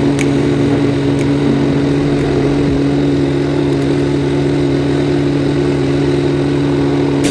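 An engine or motor running steadily at an even pitch, with a couple of faint ticks in the first second or so.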